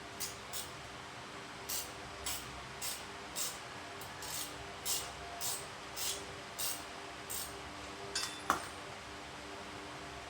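A spanner working a 14 mm engine mounting bolt loose: a run of short metallic clicks about two a second, then a sharper click about eight and a half seconds in.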